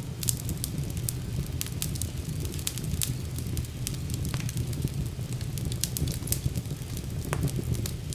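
Wood fire burning in a fireplace, with a low steady rumble of the flames and frequent sharp, irregular crackles and pops.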